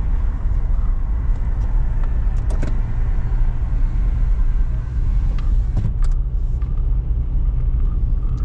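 Car driving, heard from inside the cabin: a steady low road and engine rumble, with a couple of light clicks about two and a half and six seconds in.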